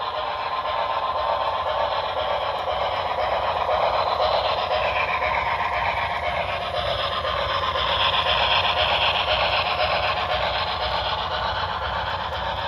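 HO-scale model steam locomotive running on track, its onboard sound system playing steady steam-engine running sounds that swell and ease slowly.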